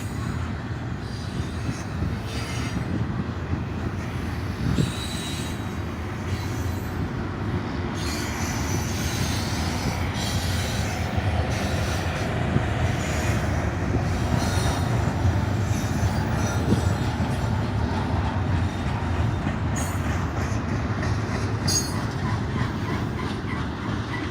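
Freight train cars rolling past, a steady rumble of steel wheels on rail that goes on without a break.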